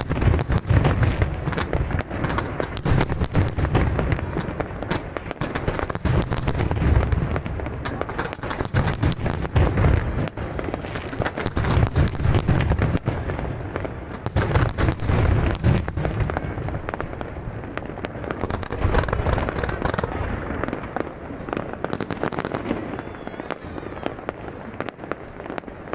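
Aerial fireworks display: a dense, continuous barrage of shell bursts, deep booms mixed with rapid crackling, easing slightly near the end.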